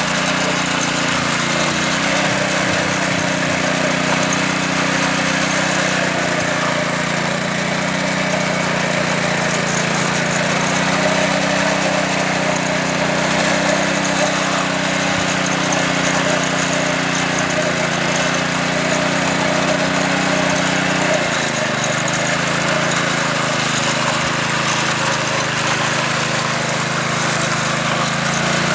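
Small petrol engine of a concrete power trowel running steadily under load, with a rough, even drone. The engine note steps down slightly about two-thirds of the way through.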